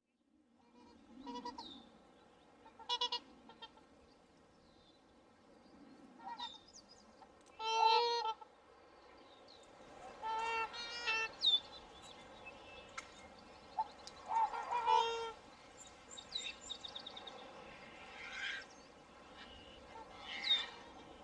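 Swans calling with repeated honks, several of them about a second long, while small birds chirp and twitter in the background.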